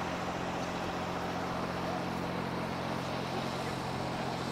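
Steady low hum of a vehicle engine idling, its pitch unchanging, over general outdoor noise.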